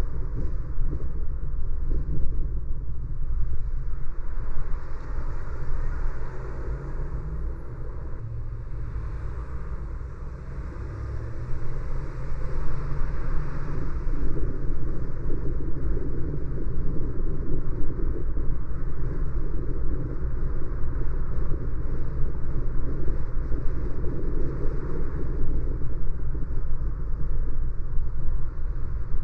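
Car driving on city streets: steady low rumble of road and engine noise heard from inside the car. It eases off for a few seconds near the middle, then builds again.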